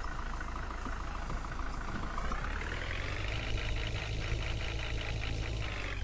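Tractor engine running, its pitch rising about two seconds in as it speeds up, holding there, then dropping back near the end.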